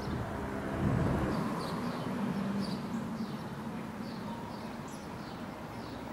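Small birds chirping repeatedly in short notes over a low outdoor rumble that drops away about a second in.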